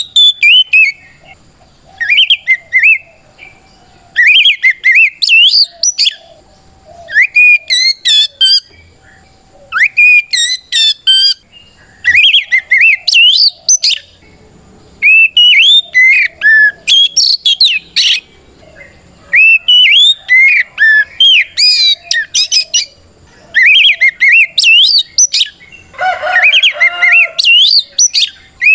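Oriental magpie-robin (kacer) singing loudly in its 'ngeplong' style: about a dozen phrases of rapid rising and falling whistles, each one to two seconds long with brief pauses between. A phrase near the end has rougher, lower notes. This is the challenging song a male uses to call out a rival.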